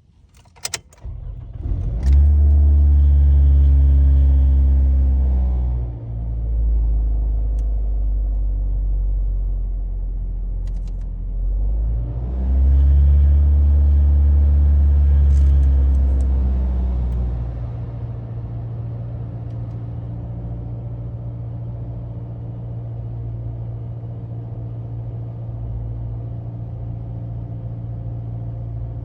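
2009 Toyota Camry LE engine revved up and held twice, then dropping back to a steady idle. The revving shows a noise that the owner says comes in above about 1500 rpm.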